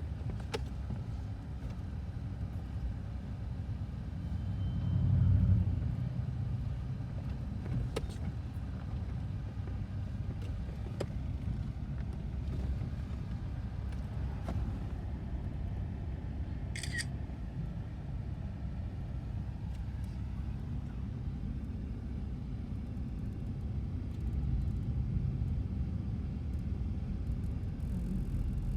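Diesel locomotives of a freight consist, a GE AC4400CW leading with EMD GP38-2 units, rumbling steadily, swelling about five seconds in. A brief high squeak comes just past the middle.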